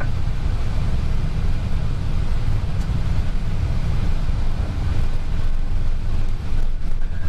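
Steady low rumble in the cockpit of an Airbus A320 rolling on the ground after landing.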